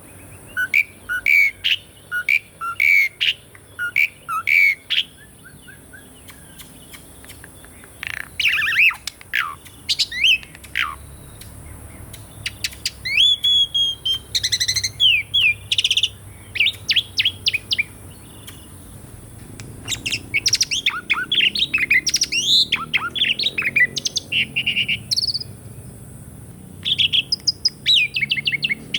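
Asian pied starling (jalak suren) singing: a varied run of whistles, up- and down-sliding notes and fast chattering note series, delivered in phrases with short pauses between them.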